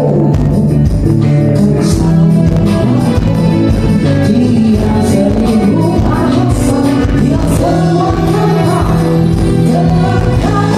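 A live band playing a song with a singer over electric guitar, bass and drums, loud and continuous.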